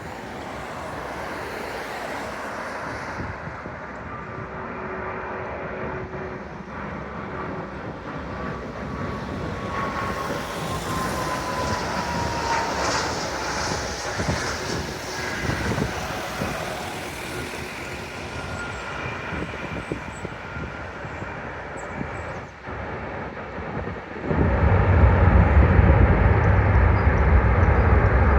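Airbus A340-600 on its landing approach, its four Rolls-Royce Trent 500 jet engines running with a whine that falls in pitch as it passes. Near the end, a sudden, much louder low rumble sets in.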